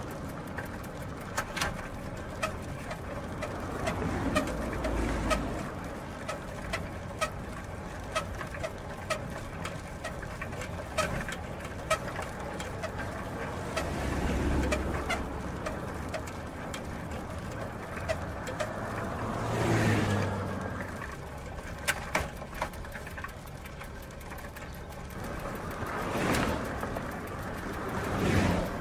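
Bicycle wheel, chain and gears turning, with many irregular clicks and ticks and a louder swell that rises and falls every few seconds.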